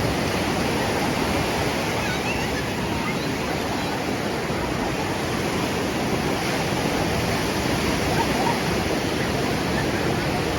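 Surf washing onto a gently sloping sand beach at high tide: a steady, loud rush of breaking waves.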